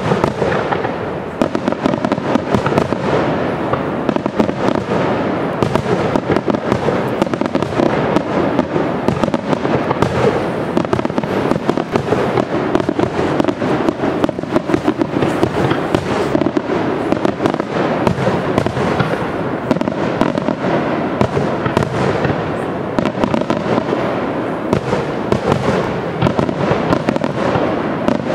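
Aerial fireworks display firing continuously: a dense, unbroken run of shell bursts, bangs and pops that starts abruptly and keeps going without a pause.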